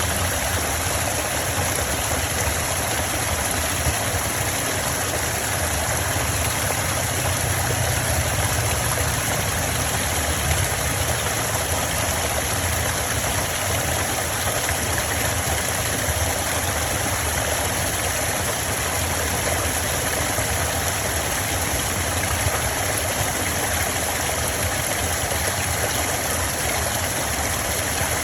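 Stream water flowing over stones: a steady rushing with a low rumble underneath.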